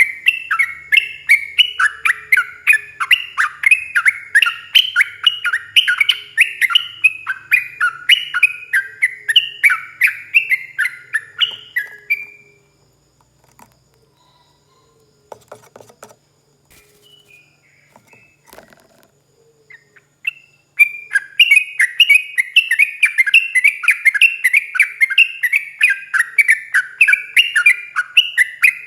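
Yellow-vented bulbul (trucukan) singing a long, fast run of rapid, falling whistled notes. The song breaks off about twelve seconds in and starts again about eight seconds later.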